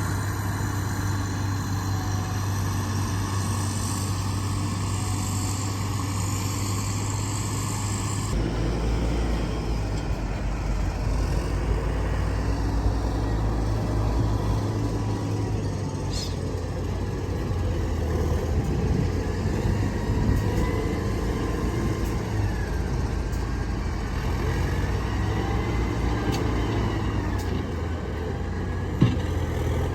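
Heavy diesel machinery of an earthworks site, excavator and dump trucks, running steadily with a deep engine hum. The sound changes abruptly about eight seconds in, and there is a single sharp knock near the end.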